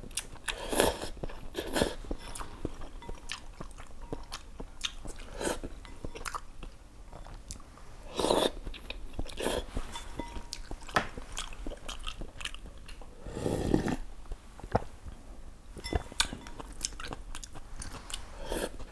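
A person chewing and eating noodles in broth close to a clip-on microphone: many wet mouth clicks and smacks, with a few louder bursts, the longest about 13 seconds in.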